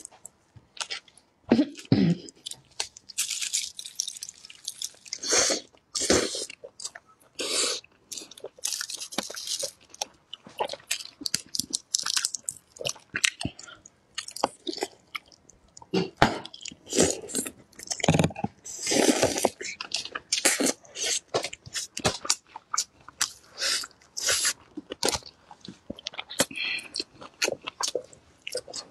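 Close-miked chewing and biting of steamed chicken dusted with chili powder: a continuous, irregular run of short wet mouth smacks and clicks.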